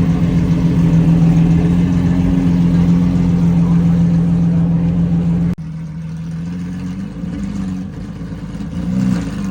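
Lamborghini Aventador V12 engine and exhaust running at a steady pitch, then, after a sudden cut about five and a half seconds in, quieter and uneven, with small blips of revs near the end.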